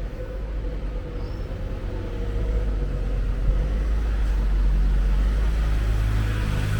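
A motor vehicle's engine rumbling close by, growing louder about two seconds in and then holding steady.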